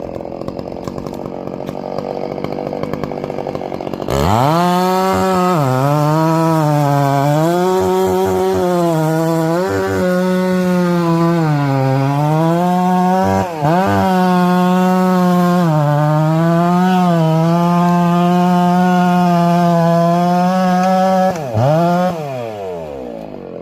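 Two-stroke chainsaw cutting fir firewood: it comes up to full throttle about four seconds in and runs for some seventeen seconds, its pitch sagging several times as the chain loads up in the wood, then the throttle is released and it winds down near the end.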